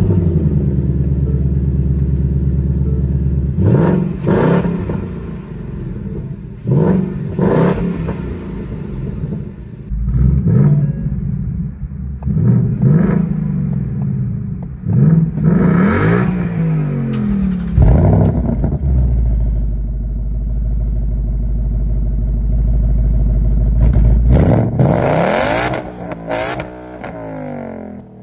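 Ford Mustang GT's V8 idling just after start-up, then revved again and again in neutral, each rev rising quickly and falling back to idle. After a steady idle of several seconds in the middle, a few more revs come near the end, heard from the driver's seat.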